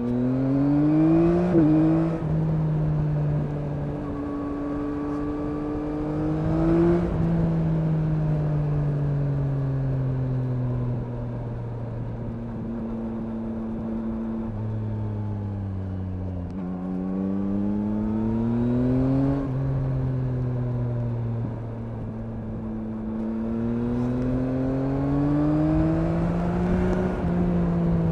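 A 2021 Yamaha MT-09's three-cylinder engine under way, heard from the rider's seat. It rises in pitch through four pulls, at the start, around six seconds in, around eighteen seconds in and near the end, and falls away slowly in between as the throttle is rolled off. A low rumble of wind and road runs underneath.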